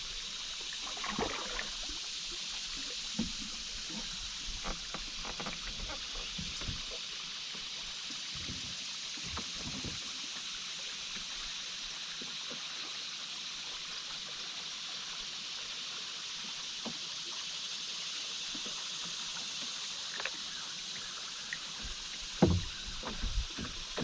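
Steady hiss of flowing river water around a canoe, with scattered soft paddle splashes and knocks against the hull, and a few louder thumps near the end.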